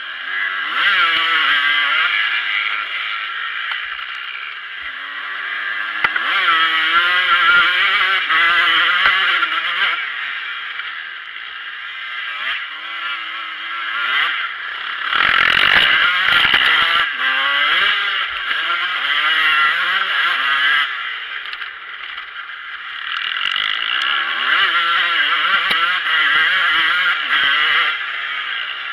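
Motocross bike engine heard from onboard, ridden hard on a dirt track: the revs repeatedly rise and fall in loud surges every few seconds, with quieter dips between. A brief loud rush of noise comes about fifteen seconds in.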